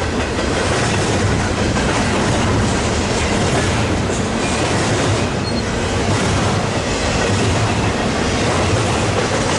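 Double-stack intermodal freight train rolling past: a steady, loud rumble of wheels on rail with clickety-clack over the rail joints.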